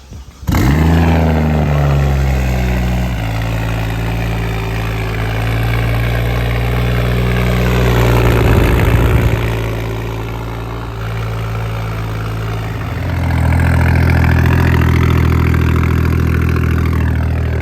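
BMW N54 3.0-litre inline-six with a single turbo, running through a 3.5-inch straight-pipe exhaust, fires up about half a second in and flares briefly before settling into a steady, loud idle. The sound shifts around eight to nine seconds in and runs louder again from about thirteen seconds, easing off near the end.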